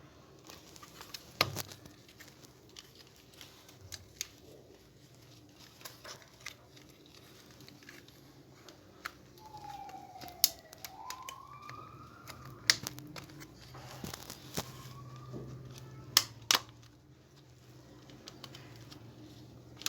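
Scattered clicks and knocks of a hair dryer's plastic housing and internal parts being handled and fitted back together. About halfway through, a short tone glides down and then up.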